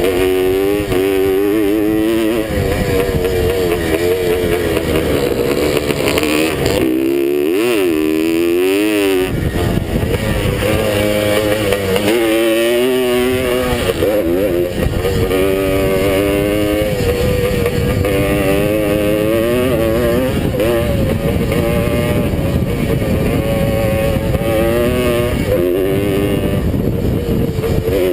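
A vintage motocross motorcycle engine under race throttle, heard on board. The revs rise and fall over and over through the gear changes. About seven seconds in the throttle is briefly shut, and the engine's note swoops before it pulls hard again.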